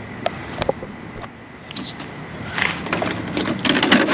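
A stiff plastic backing sheet being folded over and handled against a sheet-metal door panel: a few light clicks, then crackling and rustling that grows louder over the last couple of seconds.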